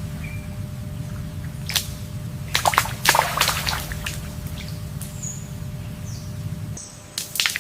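Water ambience: a few short splashes and drips, the loudest about three seconds in and another near the end, over a steady low rumble that drops away shortly before the end.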